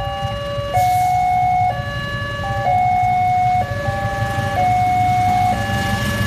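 Railway level-crossing warning alarm sounding its electronic two-tone signal, high and low notes alternating about once a second, which warns that a train is approaching. A low rumble runs underneath, and a wider rushing noise builds near the end.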